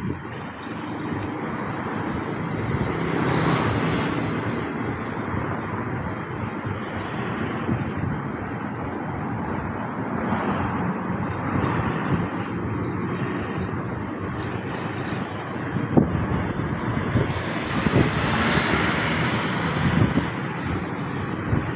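Road traffic noise with wind on the microphone: vehicles swell past three times, and there are a few sharp knocks near the end.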